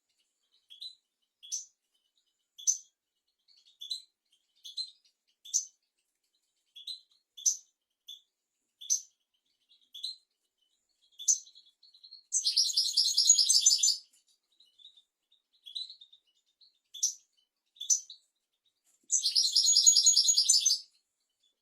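European goldfinch singing: a run of short, high, twittering chirps, broken twice by a longer rapid buzzing trill, about twelve seconds in and again near the end.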